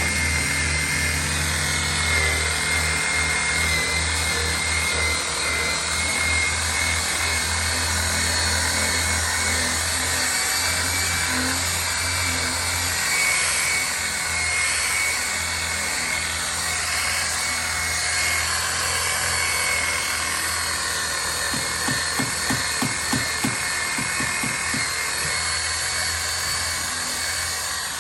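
Power tool running steadily with a high whine over a hiss. A run of quick, light taps comes about 22 seconds in.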